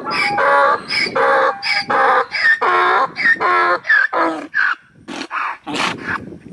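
A rapid series of short, pitched animal calls, about two a second, followed near the end by a few short, harsher noisy bursts.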